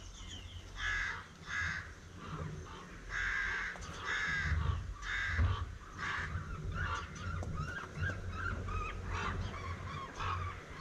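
A bird cawing harshly in a series of about six calls over the first six seconds, followed by softer, wavering calls.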